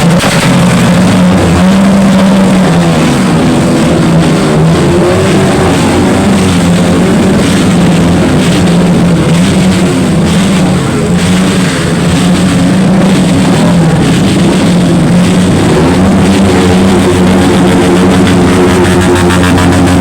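Car engine revved hard through a very loud aftermarket exhaust, held at high revs with its pitch wavering up and down. Bursts of sharp crackling come near the start and again about halfway through.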